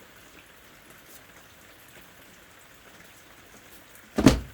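Faint, steady scratching of a pencil on paper, then a single heavy thump near the end.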